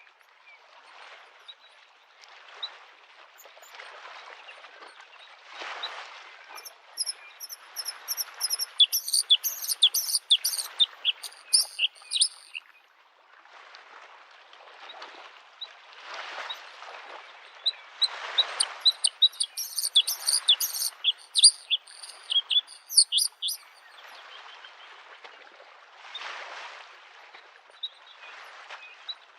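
A bluethroat sings two bouts of rapid, varied song, one in the first half and one in the second, over small lake waves washing rhythmically on the shore, a soft swell every couple of seconds.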